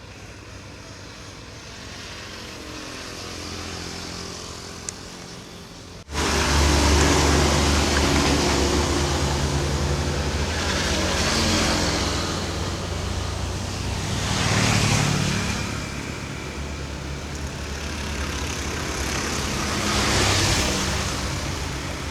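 Dump truck engines labouring up a steep climb. A moderate engine note for about six seconds cuts abruptly to a much louder low engine drone, which swells and eases several times.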